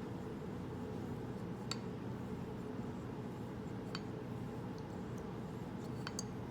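A few light, sharp clicks of a steel straight razor against a honing stone, one near the start, one in the middle and two in quick succession near the end, over a steady low background hum.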